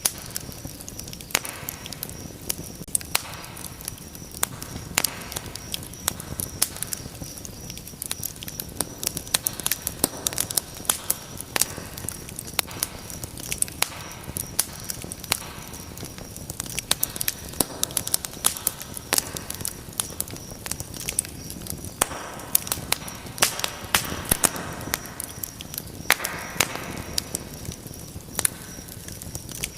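Wood fire in a fireplace crackling steadily, with frequent sharp pops and snaps over a soft rush of flame.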